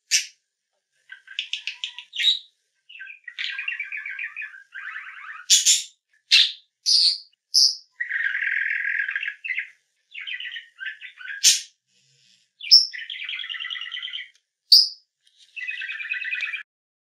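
Budgerigar chattering and warbling: runs of scratchy chatter broken by short, sharp high chirps.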